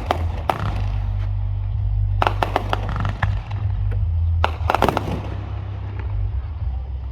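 Fireworks going off in three quick clusters of sharp bangs and crackles: near the start, about two seconds in, and about four and a half seconds in. A steady low rumble runs underneath.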